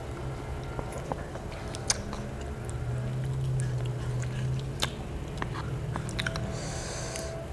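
Close-miked mouth sounds of chewing and biting barbecued pork riblets and rice, with scattered sharp clicks, two louder ones about two and five seconds in.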